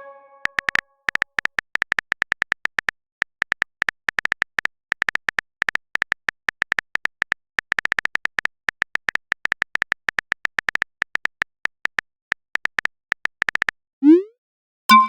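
Phone keyboard typing clicks as a message is typed, coming rapidly and irregularly. Near the end comes a short rising swoop as the message is sent, and a multi-tone notification chime begins.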